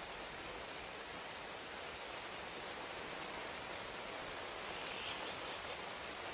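Steady rain falling, an even hiss, with a few faint, brief high ticks.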